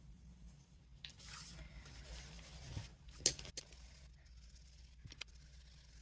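Soft rubbing on watercolor cardstock as colour is worked into the background, then a sharp click and a couple of light taps.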